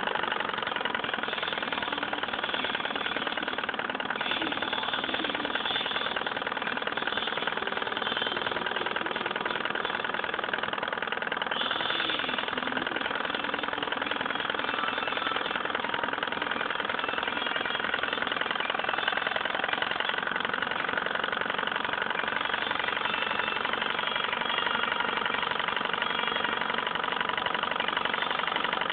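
Stirling engine running steadily.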